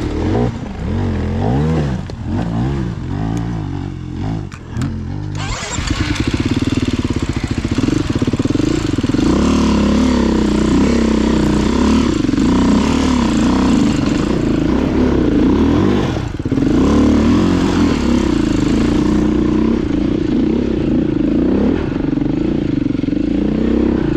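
Dirt bike engine revving up and down in the first few seconds, then running steadily and louder from about five seconds in.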